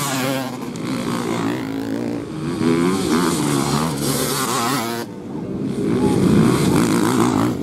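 Motocross bikes' engines revving on the track, several pitches rising and falling together as the riders work the throttles. The sound drops away briefly about five seconds in, then builds again.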